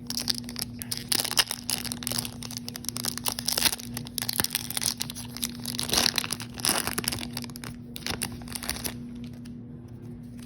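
Foil wrapper of a Yu-Gi-Oh booster pack crinkling and tearing as it is opened, a dense crackly rustle that eases off about nine seconds in.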